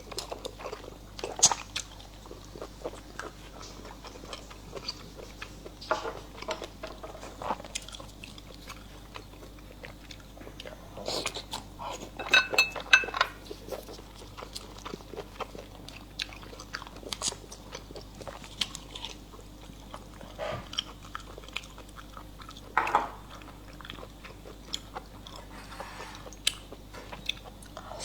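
A person eating close to the microphone: chewing and biting, with irregular crunches and small clicks. There is a louder burst of crunching about twelve seconds in.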